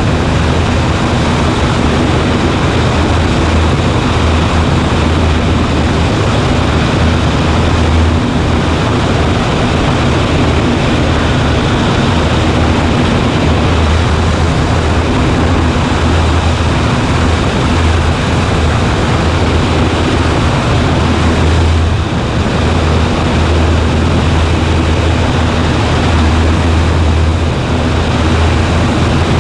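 Cessna 140A light plane in flight: its piston engine and propeller give a loud, steady drone with a low hum, unchanging throughout.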